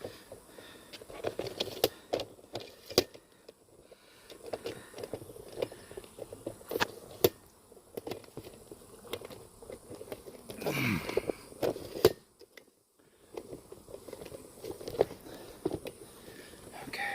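Handling of wooden beehive parts: scattered knocks, clicks and rustling as the pieces of a tipped-over hive are picked up and fitted back together, with footsteps. A louder sound falls in pitch about eleven seconds in.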